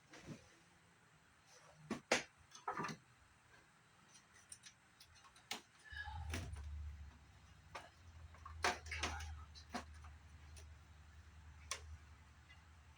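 Scattered clicks and light knocks of parts being handled during the disassembly of a CRT monitor. A low hum comes in about six seconds in and carries on.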